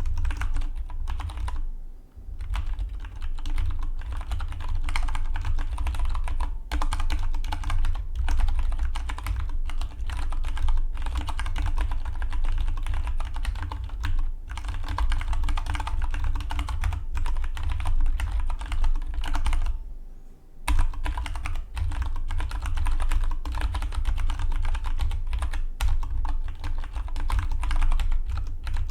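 Dygma Defy split mechanical keyboard being typed on fast and continuously, a dense run of key clicks with two short pauses, about two seconds in and about twenty seconds in.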